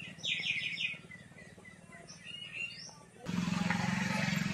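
Small birds chirping: a quick run of five or six high chirps near the start, then a few fainter ones. About three seconds in, a steady hiss with a low hum comes in abruptly.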